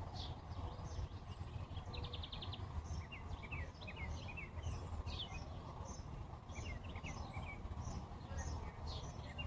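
Wild songbirds chirping and calling, many short quick notes sliding up and down, with a brief fast trill about two seconds in, over a steady low rumble.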